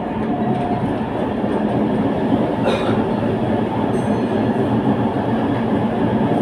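A tram running along the track: a steady rumble of wheels on rail, growing slightly louder, with one brief sharper noise about two and a half seconds in.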